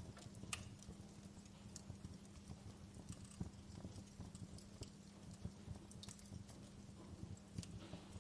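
Wood fire in a fireplace crackling quietly, with irregular sharp pops over a low rumble and a faint steady hum.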